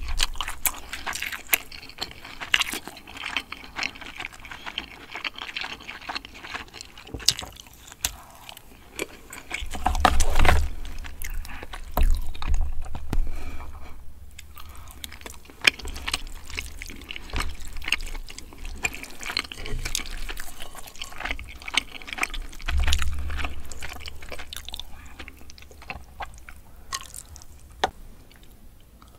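Close-miked eating sounds: wet, saucy chewing of spicy braised chicken, with chopsticks clicking against the plastic takeout container and a few low thumps.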